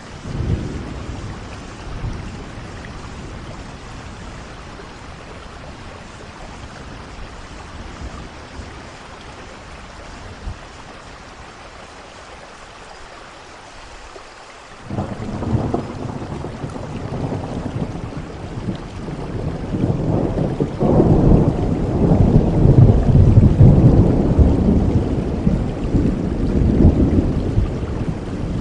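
Steady rain with thunder. A short low rumble comes right at the start, then a long rolling rumble begins suddenly about halfway, grows to its loudest in the last third and eases a little near the end.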